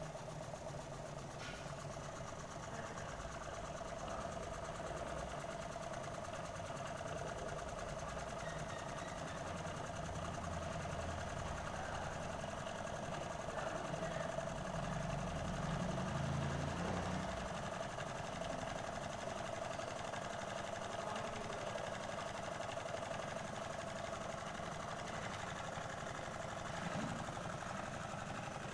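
Small model Stirling engine running steadily: a continuous whirring, clattering mechanical sound with a steady hum.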